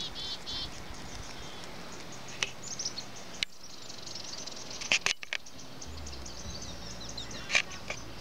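Small birds chirping, with short high calls every second or two, over a steady outdoor background. A low steady hum comes in about three-quarters of the way through.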